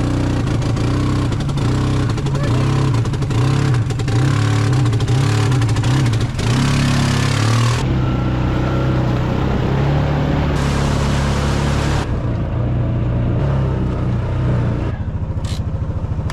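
Kei truck's small engine running, its pitch rising and falling as it is revved up and down, with the sound changing abruptly a few times.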